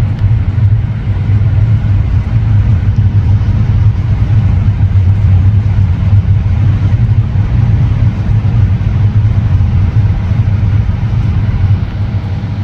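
Gale-force wind, a loud steady low rumble with a fluttering, gusty texture.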